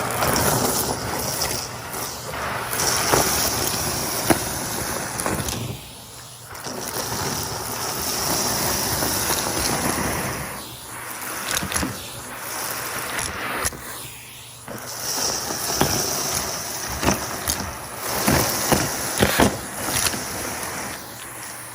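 Henry vacuum cleaner running and sucking up debris. Its sound dips and returns three times as the nozzle is moved, with sharp clicks of small hard bits rattling up the hose, more of them near the end.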